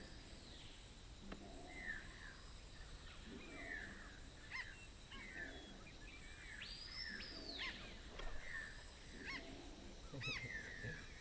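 Wild birds calling: short arching chirps and whistled notes, with one longer arched call about seven seconds in. Under them runs a faint, steady high insect hum.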